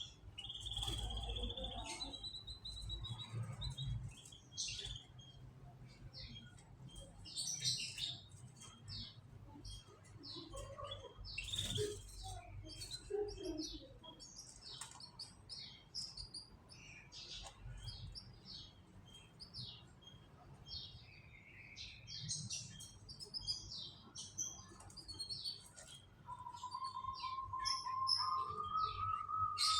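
Canaries chirping with quick short calls throughout, with a held whistled note early on and another steady note near the end that steps up once in pitch.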